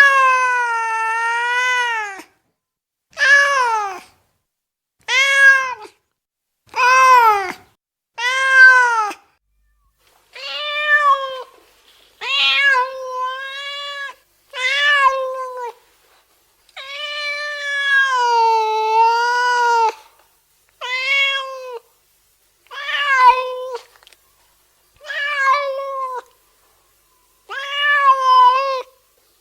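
Domestic cat meowing over and over: about fourteen separate meows, each rising then falling in pitch, most short and two long and drawn out, with silent gaps between.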